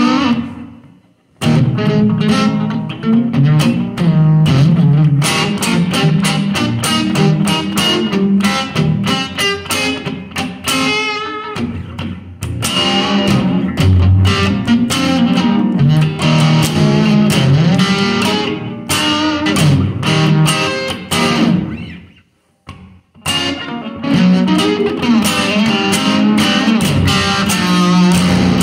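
Instrumental guitar music: rapidly picked guitar notes over a low bass line, breaking off briefly twice.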